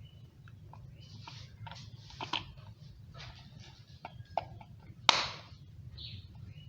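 Clicks, taps and short scraping swishes of an electric kettle's lid and its small parts being handled during repair, the sharpest scrape about five seconds in, over a steady low hum.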